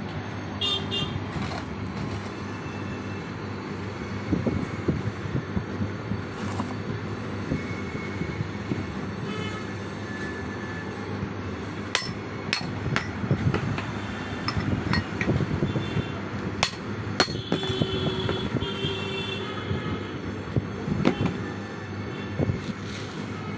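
Metal tools and parts clinking and knocking during work on a hydraulic lift pump, in irregular sharp strikes, some with a brief ringing tone, over a steady low hum.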